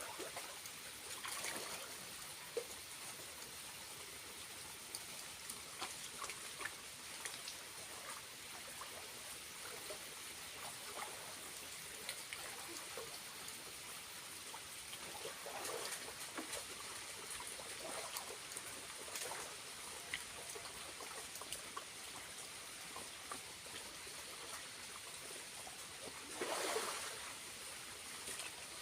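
Small waterfall trickling steadily, with a brief louder noise near the end.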